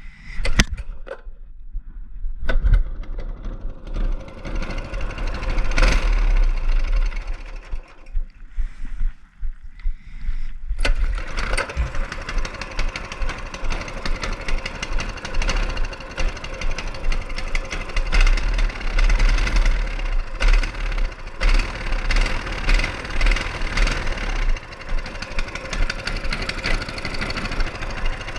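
Mini bike's small engine running. It is patchy and uneven for the first ten seconds or so, then sets in loud and steady with a rapid pulsing from about eleven seconds in.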